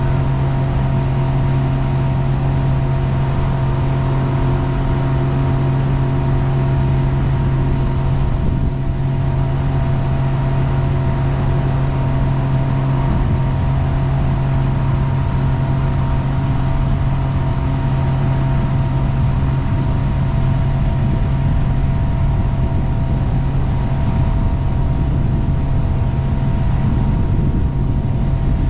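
Jet boat engine running at a steady cruising pace: a constant low drone with a few steady tones above it, over a steady rush of noise.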